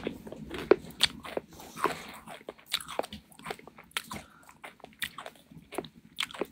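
A person biting and crunching something hard and crisp close to the microphone: irregular sharp cracks, two or three a second.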